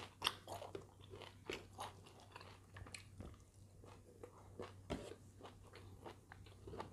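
Faint close-up eating sounds of a person chewing rice and salted fish: soft irregular crunches, clicks and smacks. A low steady hum runs underneath.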